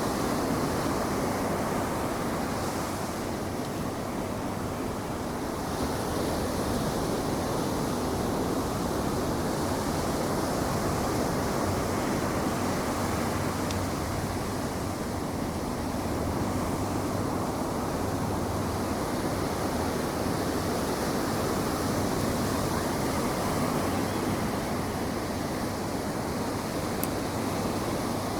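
Ocean surf breaking and washing up a sandy beach, a steady rushing that swells and eases slowly, with some wind on the microphone.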